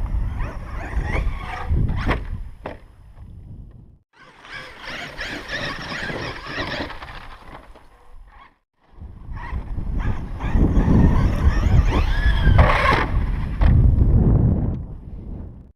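Losi LST XXL2-E electric RC monster truck being driven hard: its motor whines up and down with the throttle over rough-ground tyre noise, with wind buffeting the microphone. The sound breaks off abruptly twice, about 4 and 8.5 seconds in.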